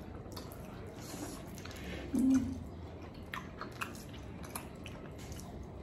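A person eating spicy noodles, chewing with scattered small mouth clicks. A short low hum comes about two seconds in.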